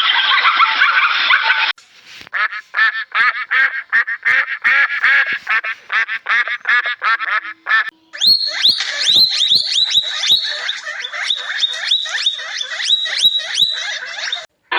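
Animal calls in quick succession: first a fast series of short chirping calls, then from about halfway louder, higher calls that drop in pitch, about three a second. A dense noisy sound cuts off just before the calls begin.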